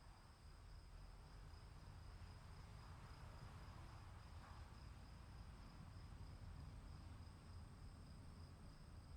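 Faint forest ambience: insects, likely crickets, trilling steadily at two high pitches, over a soft low rumble.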